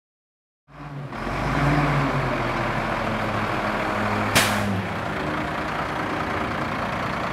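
Diesel engine of a 1998 White-Volvo rear-loader garbage truck running, cutting in suddenly under a second in. About four seconds in a brief sharp burst of noise stands out over the engine, whose tone shifts lower soon after.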